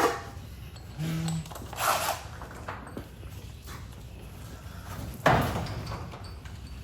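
Intermittent clunks and scrapes of tools on metal garage door hardware, with a brief buzz about a second in and a sharp knock just past five seconds, followed by about a second of scraping.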